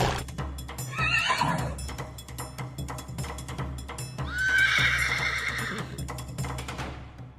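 A horse whinnies twice, a short whinny about a second in and a longer one about four seconds in, over the steady clip-clop of hooves, with background music underneath.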